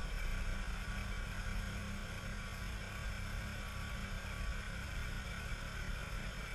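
Humber 14/40 four-cylinder engine idling steadily and evenly, running smoothly now that its magneto has been put right.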